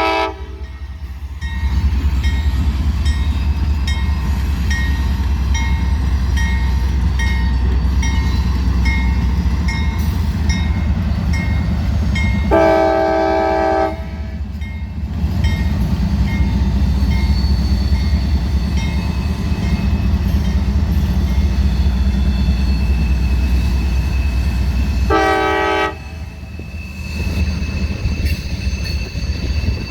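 Diesel freight locomotives passing with a steady low rumble, sounding a multi-chime air horn in two blasts, about 13 seconds and 25 seconds in, the first longer. A bell dings steadily, about once every three quarters of a second, through the first two thirds.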